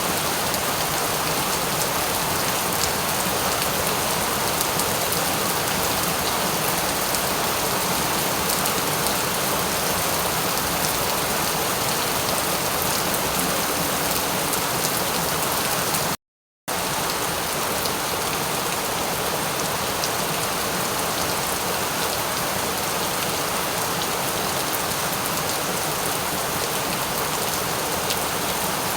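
Steady rain, a dense even hiss of falling drops with fine patter running through it. About halfway through it cuts to silence for about half a second, then resumes at the same level.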